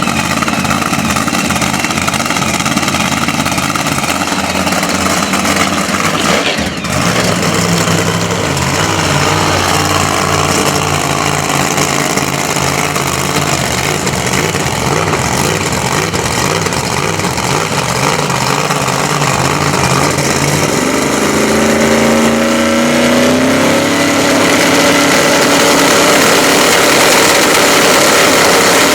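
Race car engine running loudly at the drag strip, mostly steady, with its pitch rising as it revs about 21 seconds in and the sound growing louder toward the end.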